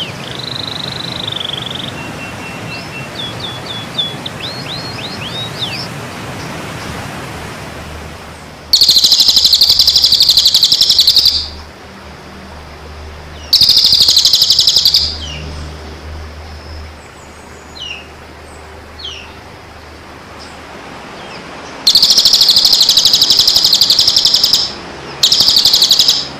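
Recorded songbird song for training caged birds: quick whistled notes sweeping sharply down, then loud, harsh, rapid trills that come in bursts of one to three seconds, four times, with short chirps between them.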